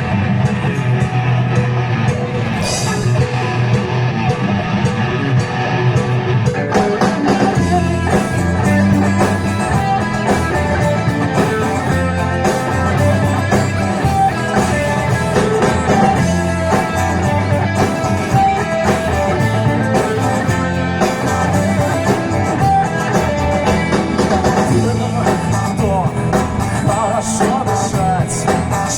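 Live band playing an instrumental stretch of a song, with electric guitar over bass and drums.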